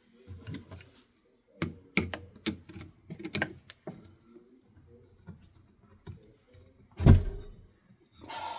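Metal parts of a ceiling fan's switch housing being unscrewed and handled: scattered clicks and knocks, with one heavier thump about seven seconds in.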